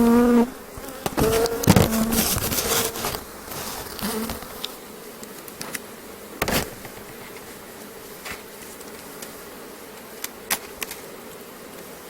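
Honeybees buzzing around an opened hive, louder in the first few seconds and then a lower steady hum. A few sharp knocks, the loudest about a second and a half in and others about six and a half and ten and a half seconds in, as a wooden hive box is lifted off.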